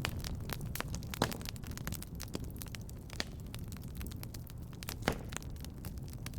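Fireplace fire crackling: irregular sharp snaps and pops over a low steady rumble, with a couple of louder pops about a second in and again about five seconds in.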